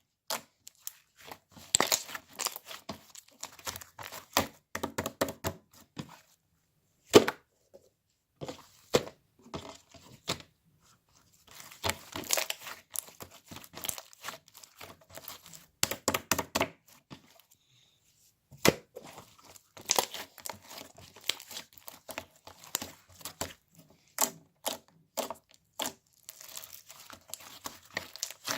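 White clay slime being pressed, stretched and poked by hand, giving irregular runs of crackling pops and sticky clicks with short pauses between.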